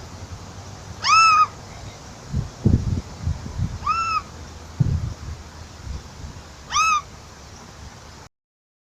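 A bird calling three times, about three seconds apart: each call is a single short, arched, meow-like note that rises and falls. Low thumps and rumbles come between the calls.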